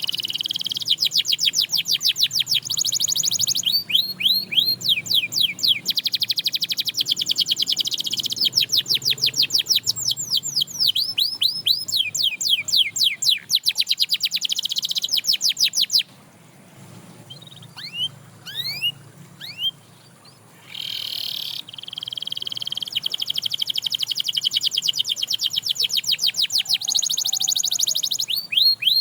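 Domestic canary singing: long, fast trills of rapidly repeated high notes, changing from one roll to the next. Around the middle there is a pause of a few seconds with only a few scattered rising notes, then the trilling resumes.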